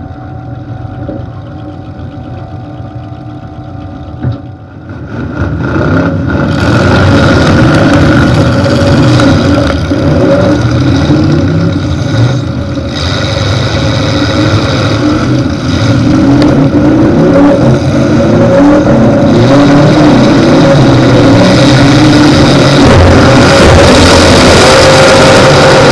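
The engine of a 1992 Cadillac Brougham hearse derby car, breathing through open exhaust stacks. It runs lower for the first five seconds, with one sharp knock about four seconds in, then revs hard and runs loud, its pitch rising and falling as it drives.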